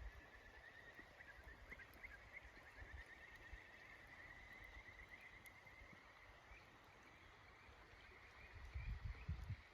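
Faint chorus of frogs calling in rapid, overlapping trills, over a low outdoor rumble; a few low thuds come near the end.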